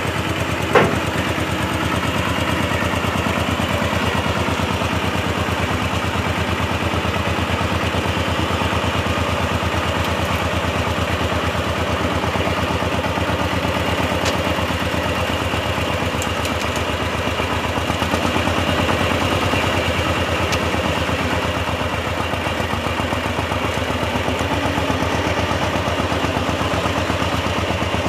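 A diesel engine of the heavy equipment running steadily at an even speed, with a single sharp knock about a second in.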